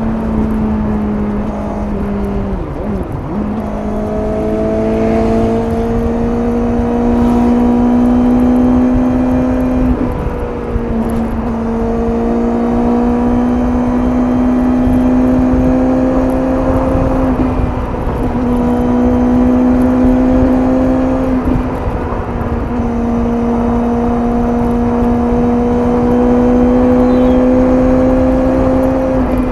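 Suzuki GSX-S750's inline-four engine through its stock exhaust, running at highway speed over wind rush. Its note creeps slowly up in pitch and dips briefly a few times as the throttle is eased and reopened.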